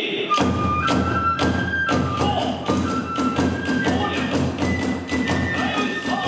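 Kagura hayashi music: taiko drum strokes and clashing tebyōshi hand cymbals keep a fast, steady beat while a bamboo flute (fue) holds long notes that step up in pitch.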